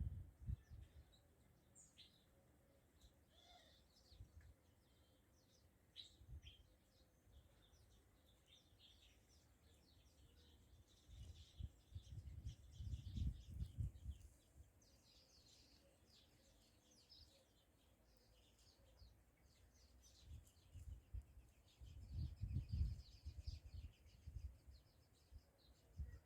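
Faint chirping of small birds, many short calls running on throughout. A low rumble comes in twice, about eleven seconds in and again about twenty-one seconds in.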